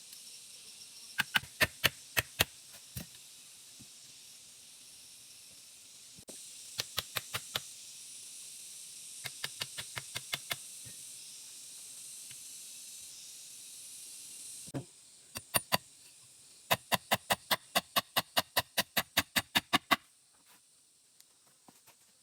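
Bursts of rapid, sharp knocks, several a second, with pauses between the bursts, like repeated chopping or tapping on wood. A steady high hiss runs under them and drops away near the end.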